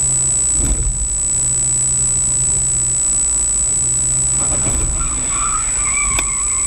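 Steady road and engine noise of a moving car, as picked up by a dashcam, with a constant thin high-pitched whine over it. Near the end come faint wavering squeals and a single click.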